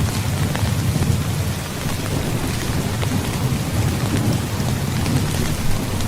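Heavy rain falling steadily, with fine drop patter, over a continuous low rumble of thunder.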